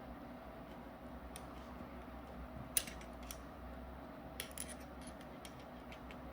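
Small hard clicks and taps of paintball marker parts being handled and fitted during reassembly, scattered and irregular, the sharpest about three seconds in and a quick pair near four and a half seconds, over a steady low room hum.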